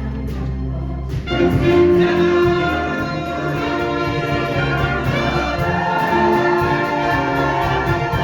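A musical-theatre cast singing in chorus over a band with brass. The full ensemble comes in louder about a second in.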